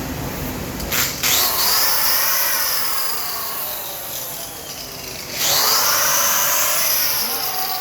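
Handheld power tool running in two long bursts, the first starting just after a second in and the second about five and a half seconds in, each with a whine that sweeps in pitch as it starts.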